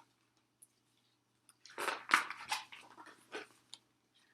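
A picture book's loose dust jacket being pulled off and handled: a cluster of crackling rustles about two seconds in, then a few lighter rustles.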